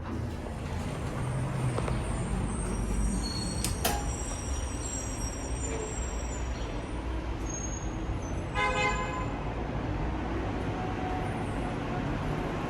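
Low rumble of a heavy vehicle with thin high squeals over it, a sharp click about four seconds in, and a short horn toot about nine seconds in.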